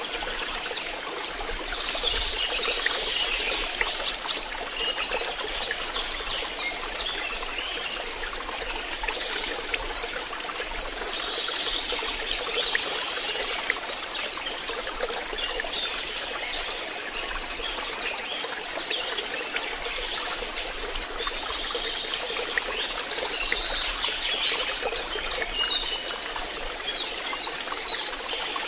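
Water trickling and splashing steadily into a fish pond, with two sharper louder splashes or knocks about four seconds in.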